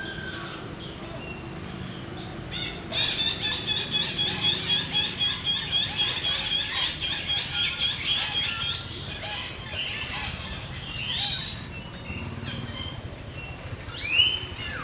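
Bird calls: a high, fast repeated trill for about six seconds, then a few separate high chirps, the loudest near the end.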